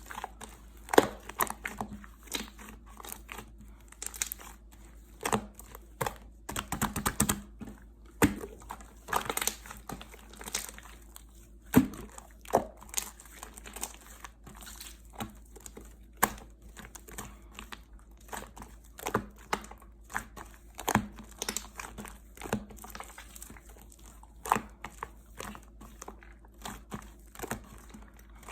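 Slime being pressed, folded and poked by hand, making irregular crackles and sharp pops, several a second.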